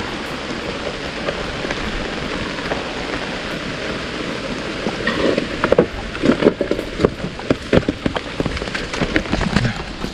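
Steady rain falling, with a run of sharp, close drop taps from about five seconds in.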